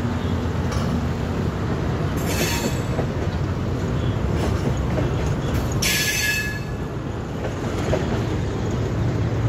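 Express train passenger coaches rolling past, a steady rumble of wheels on the rails, with two brief high-pitched wheel squeals about two seconds and six seconds in.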